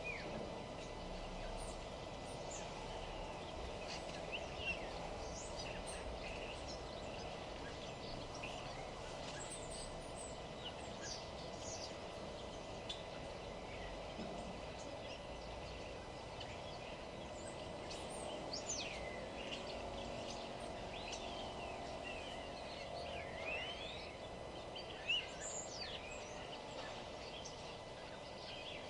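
Wild birds calling and chirping at scattered intervals in short, quick sweeping notes, over a steady low background hum.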